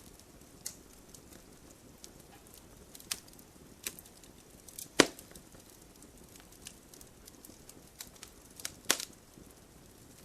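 Wood fire in a wood-burning stove crackling, with scattered sharp pops from the burning logs over a low hiss; the loudest pop comes about halfway through, another strong one near the end.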